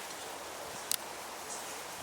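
Steady outdoor background hiss with a single sharp click about a second in.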